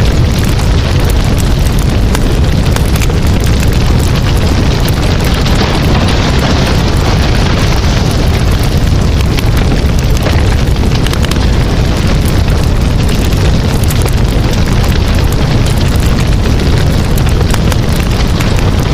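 Campfire burning, with continuous crackling and popping over a steady low rumble.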